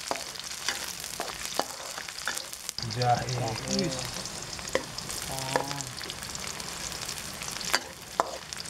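Sliced shallots and garlic sizzling in hot oil in a wok, stirred with a metal spatula that clicks and scrapes against the pan.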